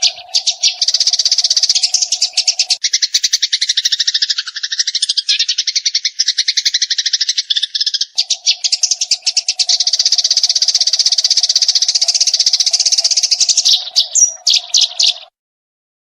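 Eurasian tree sparrow chirping in a fast, unbroken rattle of sharp notes that stops abruptly about a second before the end. A steady low hum runs under the chirping for the first few seconds and again through the second half.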